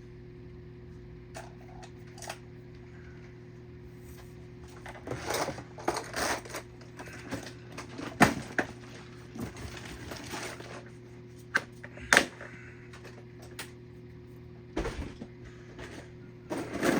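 Irregular small clicks, knocks and rustling as diecast toy cars are handled, picked up and set down, with the sharpest knocks about 8 and 12 seconds in. A steady low hum runs underneath.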